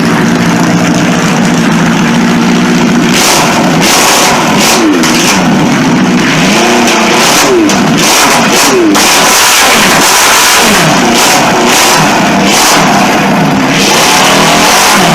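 Modified garden pulling tractor engine idling steadily, then revved up and down repeatedly from about three seconds in.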